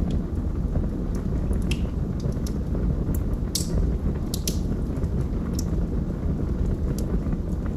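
Log fire crackling: irregular sharp pops and snaps over a steady low rumble, with louder pops about three and a half and four and a half seconds in.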